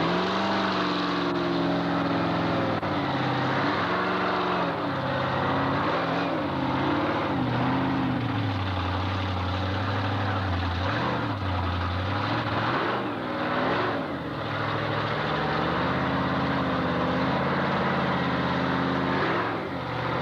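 Monster truck engine revving up and down over and over, its pitch rising and falling every second or two, with brief drops off the throttle near the middle and near the end.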